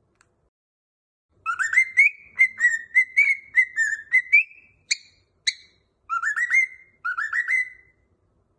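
Cockatiel whistling a string of quick rising notes, starting about a second and a half in, with two short separate notes near the middle and two more fast runs near the end.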